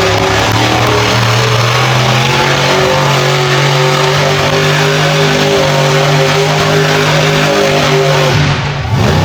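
Monster truck engine running hard at high revs, held fairly steady. Near the end the revs dip briefly, then pick up again.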